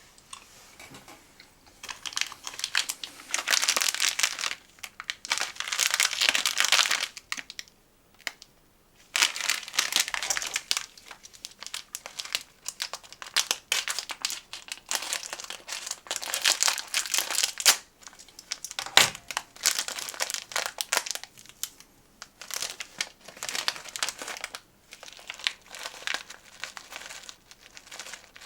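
Plastic snack wrapper crinkling in repeated bursts as it is handled and opened, with a single sharp click about two-thirds of the way through.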